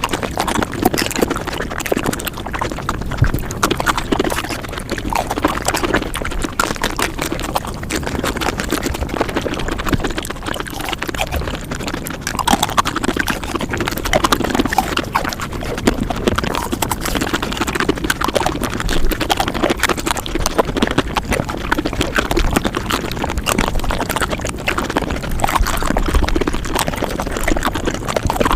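Close-miked eating sounds played back at five times speed: chewing and slurping sped up into a dense, unbroken stream of rapid wet clicks and smacks.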